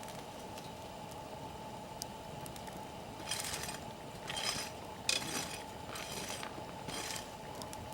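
A wood campfire with occasional faint crackles, then about five short clinking, rustling handling sounds between about three and seven seconds in, like metal gear or cookware being moved.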